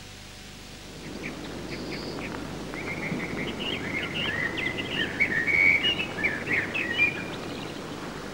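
Birdsong: quick chirps and warbling trills begin about a second in and grow busier and louder in the second half, over a steady low hiss.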